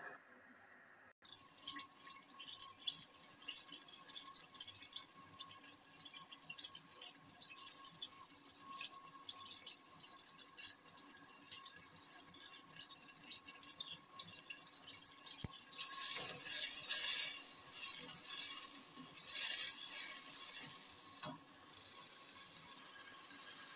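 Onions frying in hot oil in a steel pot, with a steady sizzle full of fine crackles. The sizzle surges louder for a few seconds about two-thirds through, then settles.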